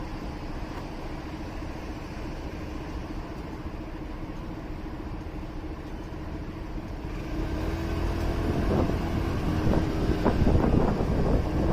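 Motorcycle riding on city roads: the engine runs with a steady hum over road rumble, then gets louder about seven seconds in as the bike speeds up, with a heavier, rougher rumble.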